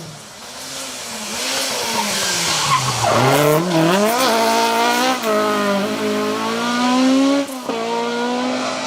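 Ford Escort Mk2 rally car engine at hard throttle. The engine note dips low about three seconds in, then climbs steeply through quick gear changes and holds a high, slowly rising note until a sudden shift near the end. A rushing hiss of tyre noise rises in the first seconds.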